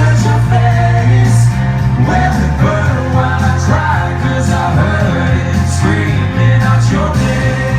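Live pop song performance: male vocalists singing over a loud band backing with a heavy bass line.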